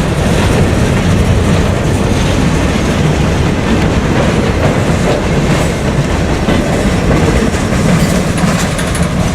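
Freight cars of a Norfolk Southern train rolling past close by: a loud, steady rumble of steel wheels on the rails.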